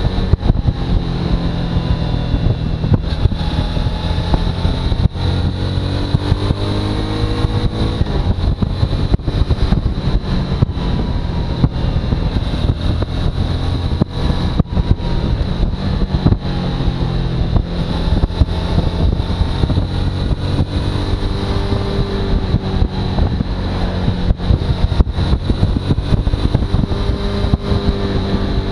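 Suzuki V-Strom motorcycle's V-twin engine running under way, its pitch rising and falling with the throttle, under a thin steady high whine.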